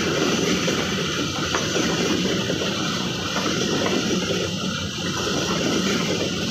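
A passing train making a steady, dense rumble of wheels and cars on the rails.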